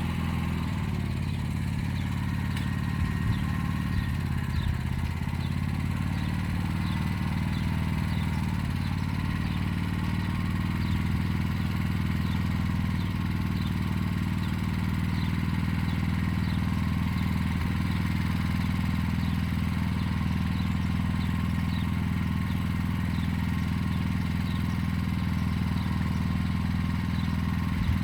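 Motor Sich walk-behind tractor's engine running steadily at a constant speed while it pulls a hiller along the rows, with a faint, evenly repeated high ticking over it.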